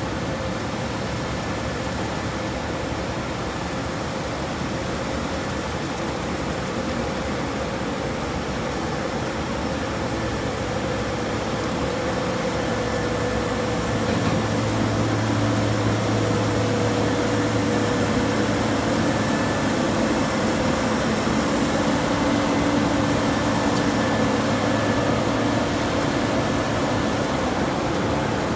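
Large harvest machinery running steadily in a cornfield: a steady drone with a low hum and a higher steady whine, growing louder about halfway through.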